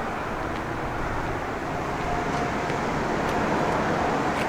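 Steady road and traffic noise from vehicles, an even rush with no clear events.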